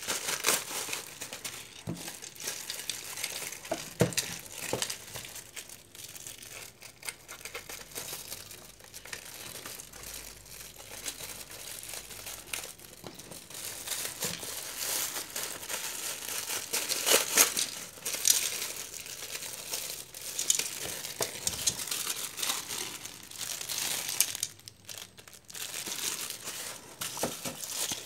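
Packaging being handled and unwrapped by hand, crinkling and rustling in irregular bursts, busiest a little past the middle.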